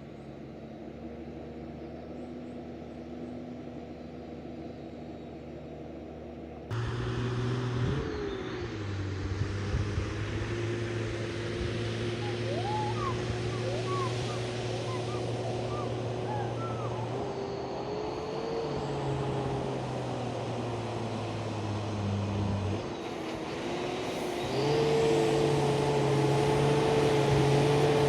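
Heavy loaded truck's engine labouring on a slippery uphill climb, its note rising and falling as the driver works the throttle. It gets louder and higher from about three-quarters of the way through.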